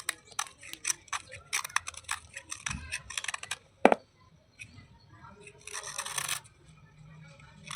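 Slate pieces crunching and crackling as they are handled and cleaned: a quick run of sharp crackles, one loud click about four seconds in, then a short scraping rustle about six seconds in.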